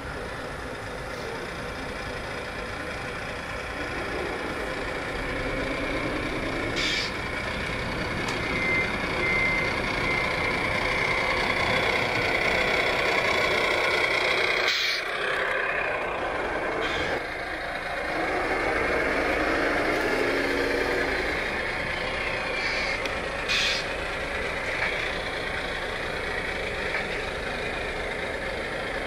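Radio-controlled scale model trucks running, their sound units playing truck engine noise continuously. A short run of reversing-style beeps comes about nine seconds in, and there are a few sharp clicks here and there.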